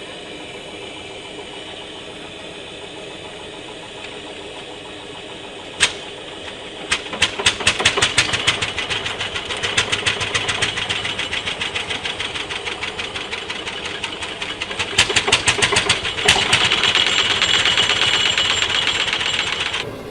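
Old tractor engine running, its firing strokes coming in a fast, even beat from about seven seconds in after a quieter steady hum and a sharp click. The sound cuts off abruptly near the end.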